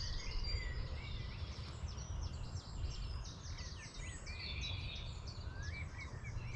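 Several small birds singing and chirping with quick, repeated trills, over a steady low rumble.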